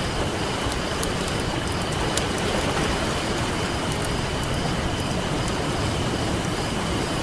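Campfire crackling with scattered sharp pops over a steady, unbroken wash of ocean surf, with a faint thin high tone underneath.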